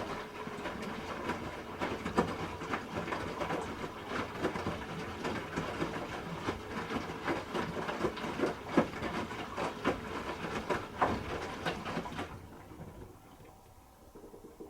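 Hoover H-Wash 300 Plus washing machine drum turning wet laundry in water during a rinse, with sloshing and irregular knocks. The tumbling stops about twelve seconds in, leaving a faint steady hum.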